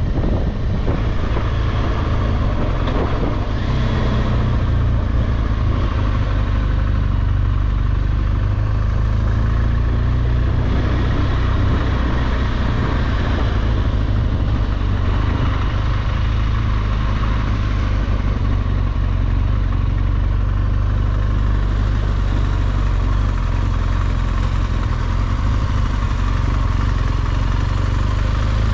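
BMW R1200GS Adventure's boxer-twin engine running steadily at cruising speed, with wind noise rushing over the microphone.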